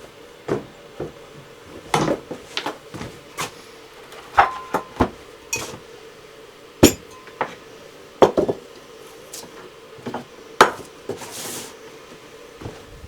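Irregular knocks and clinks of pots, dishes and utensils being handled in a kitchen: about fifteen sharp strikes at uneven intervals, some ringing briefly. A faint steady hum runs underneath.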